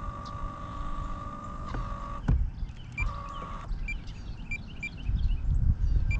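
Electric trolling motor whining steadily, cutting out with a knock about two seconds in, running again briefly and stopping. Then birds chirp over a low rumble of wind on the microphone.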